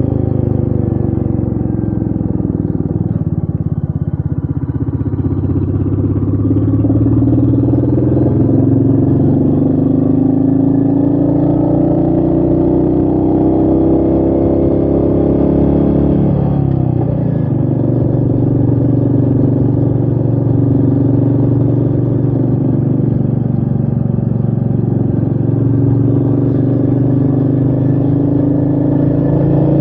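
Royal Enfield Meteor 350's single-cylinder engine under way, its pitch falling at first, then rising steadily, dipping sharply about halfway through and climbing again, with wind on the microphone.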